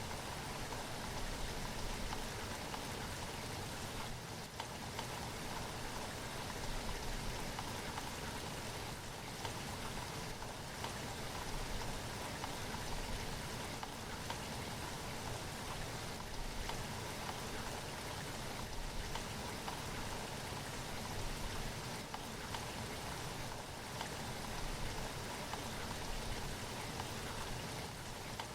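Steady rain falling, an even dense patter of raindrops on a surface with small swells in strength.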